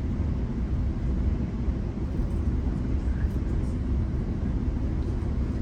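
GO train in motion, a steady low rumble of wheels on the track and the moving car.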